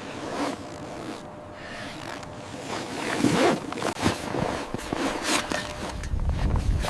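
A zipper being pulled in short, uneven strokes amid rustling gear fabric, getting louder about three seconds in, with a low rumble near the end.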